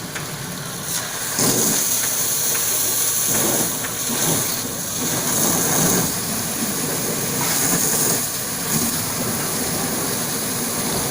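High-pressure water jet from a car-wash pressure washer spraying onto a car: a steady loud hiss that gets louder about a second and a half in, then swells and dips.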